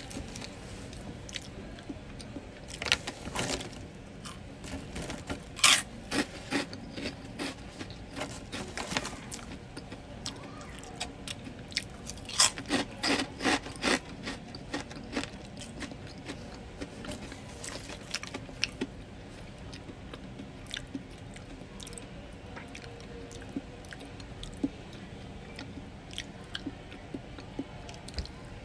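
A person chewing and biting French fries: irregular short crunches and mouth sounds, coming in clusters with gaps between.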